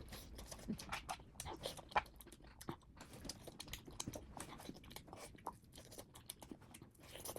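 Close-miked chewing and crunching of food, a run of small irregular crunches and mouth clicks.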